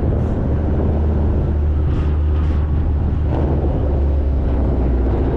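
A car driving along: a steady, loud low rumble of engine and road noise, with wind buffeting the microphone.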